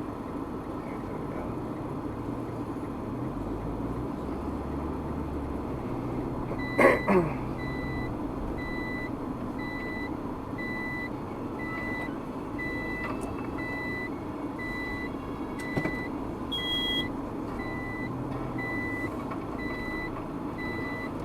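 Steady road and engine noise of a moving car, with an electronic beep repeating at an even pace, a little over once a second, from about six seconds in. About seven seconds in there is a loud sudden swish that falls quickly in pitch.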